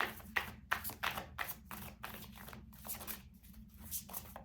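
A deck of tarot cards being shuffled by hand: a quick run of soft, papery swishes at about four a second.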